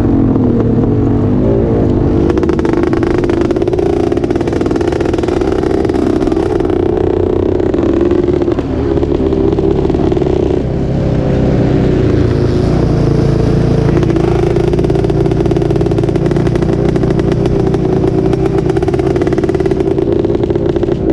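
Off-road vehicle engine running hard at high revs, with brief dips about eight and ten seconds in.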